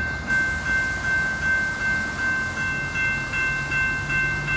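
Level crossing warning bell sounding steadily as an electronic tone, over the hiss of heavy rain. A low engine hum comes in near the end.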